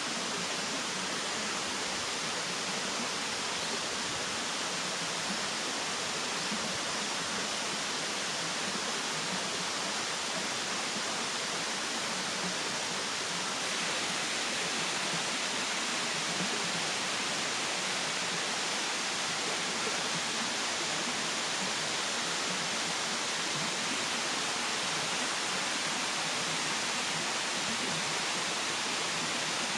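A steady, even rushing hiss with no crackles or distinct events.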